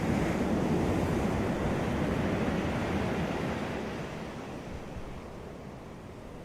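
Ocean surf on a beach: a wave breaking and washing in, loudest in the first few seconds, then easing back as it recedes.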